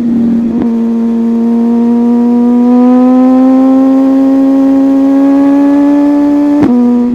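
Sport motorcycle engine running at high revs under steady acceleration, its pitch rising slowly. Near the end there is a brief break and the pitch steps down, as at an upshift.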